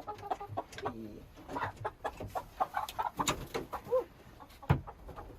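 Backyard hens, Plymouth Rocks and Rhode Island Reds, clucking with many short calls, with a single sharp knock near the end.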